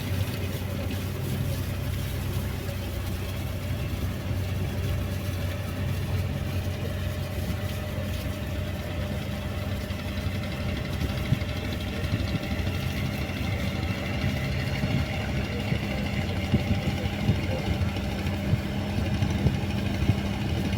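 A river boat's engine running steadily at an even pitch.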